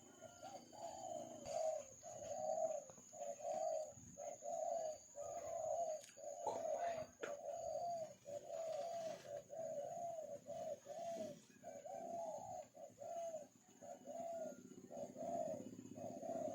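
A dove cooing in a long, even series of short, arched notes, about one and a half a second, over a steady high-pitched whine.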